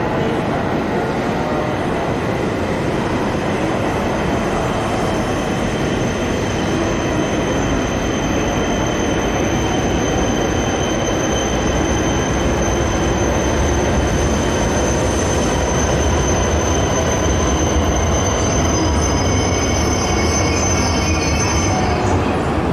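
JR East E8 series Shinkansen train pulling slowly into the platform, running with a steady high-pitched whine over its noise. A low rumble grows louder from about halfway as it comes alongside, and the whine cuts off near the end.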